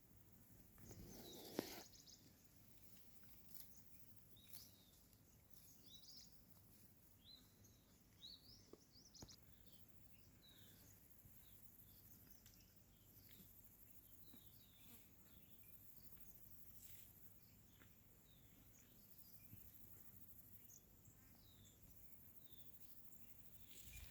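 Faint bird chirps, short high calls repeating every second or so over a quiet outdoor background, with a brief rustle about a second and a half in.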